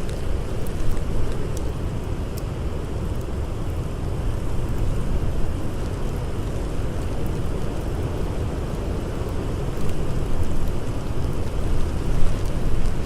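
Blizzard wind howling: a steady, deep rush of noise that gusts up slightly near the end, with a few faint crackles of a campfire.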